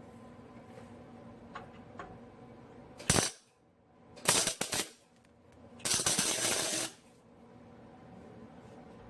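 Welder tacking a steel exhaust pipe joint: three crackling bursts of arc, a short one about three seconds in, a sputtering half-second one, then a steadier one lasting about a second.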